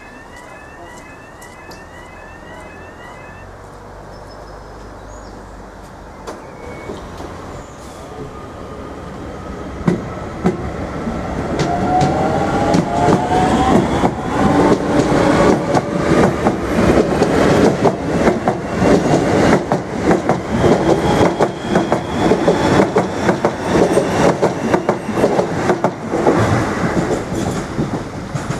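A level-crossing warning alarm warbles for the first few seconds and then stops. An Irish Rail DART 8510/8520 class electric multiple unit then pulls away through the crossing, with a rising electric whine as it gathers speed and its wheels clacking over the rail joints. It is loud for most of its passing and drops away near the end.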